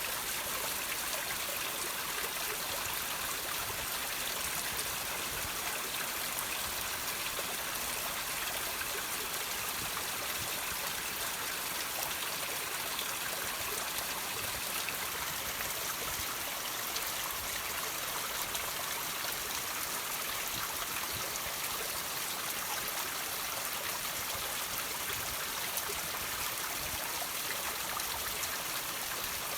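Water trickling and dripping off rocks: a steady bright hiss of running water with small scattered drips.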